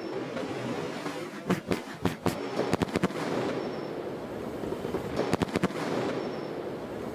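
Aerial firework shells from a 3.5-inch seven-shot sky-shot pipe bursting overhead. Two clusters of rapid sharp cracks come about a second and a half in and again around five seconds, over a steady background noise.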